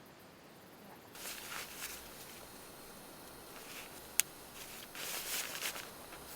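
Two short spells of rustling and one sharp click a little after four seconds in.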